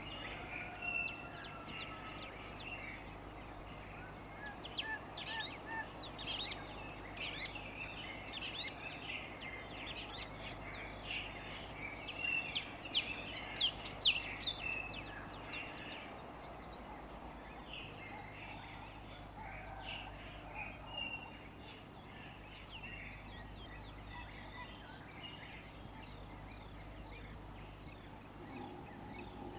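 Birds chirping and calling in many short, high notes, busiest and loudest about halfway through, over a steady low hum.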